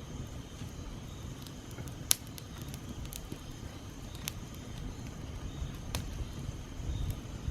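Small campfire of twigs and hardwood branches crackling, with a few sharp pops, the loudest about two seconds in, over a low steady rumble.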